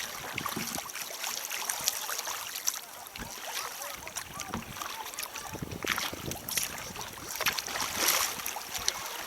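River water splashing and gurgling around a kayak, many small irregular splashes over a steady wash.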